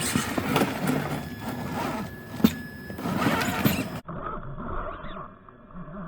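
A radio-controlled 6x6 truck crawling over rocks: the small electric drive whines while its tyres and chassis clatter on stone, with a sharp knock about two and a half seconds in. About four seconds in the sound turns suddenly muffled and thinner, as from an onboard camera's microphone.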